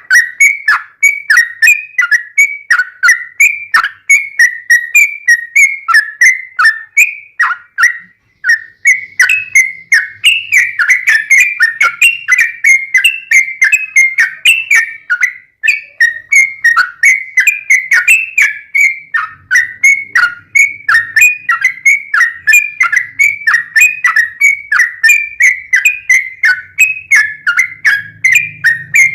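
Yellow-vented bulbul (trucukan) singing a fast, unbroken run of short, clear whistled phrases, mostly falling in pitch, about two to three a second, with a brief pause about eight seconds in. This is the continuous "ropelan" style of trucuk song.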